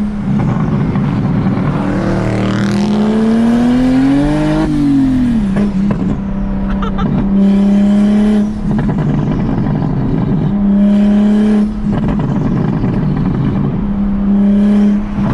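Big-turbo BMW N54 inline-six pulling hard under throttle. Its pitch climbs and drops sharply at a gear change about four and a half seconds in, then it alternates between steady running and rougher bursts of throttle.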